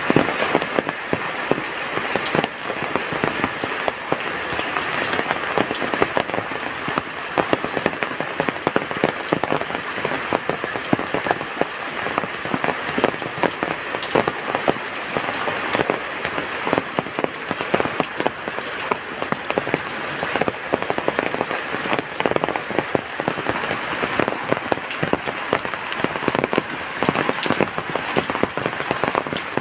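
Heavy rain falling steadily on a surface, a dense patter of countless drops.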